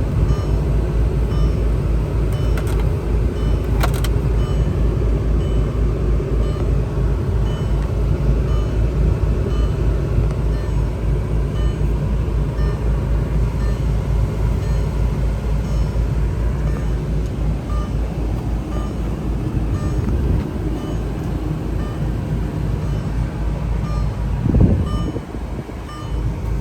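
Car engine running steadily as a low, even rumble, with a brief swell about 24 seconds in.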